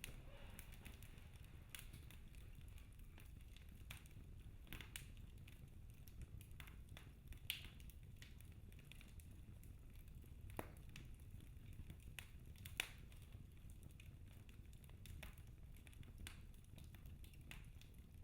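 Wood fire crackling faintly in a fireplace: irregular small pops and snaps over a low steady rumble, with two louder pops about seven and thirteen seconds in.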